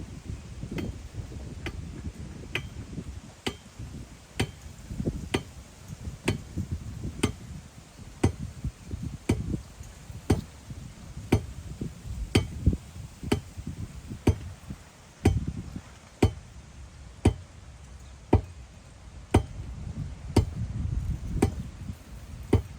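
A hand tool striking the ground in a steady rhythm, about one sharp knock a second, with wind rumbling on the microphone.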